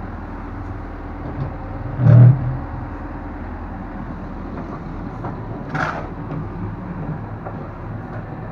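An engine running steadily, with a heavy thump about two seconds in and a sharper knock near six seconds.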